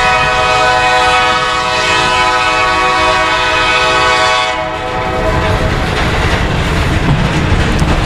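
Diesel locomotive air horn sounding one long, steady chord of several notes, stopping about five seconds in, over the rumble of a passing train that carries on after the horn stops.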